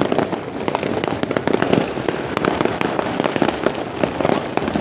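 Fireworks going off in a dense, continuous barrage of overlapping bangs and crackles, many per second.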